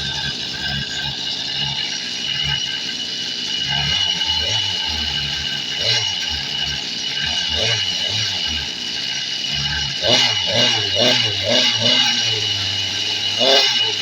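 Goped Sport's small two-stroke engine running after a pull start, with a steady high-pitched buzz and uneven low firing, revving up around ten to twelve seconds in and again near the end.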